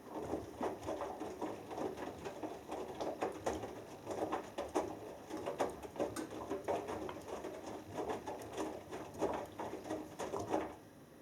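Hoover Dynamic Next washing machine's drum turning during the wash, with the wet laundry tumbling and water splashing and pattering inside. It starts suddenly and stops after about ten seconds.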